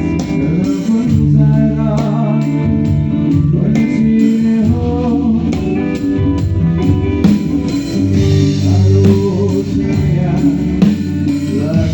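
Live band playing through a stage PA during a sound check: guitar-led music with a steady bass line and some singing.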